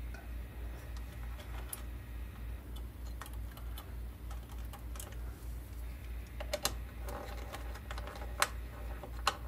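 Scattered small clicks and taps of hands and tools working on model railroad wiring, with a few sharper clicks in the second half, over a low hum that pulses several times a second.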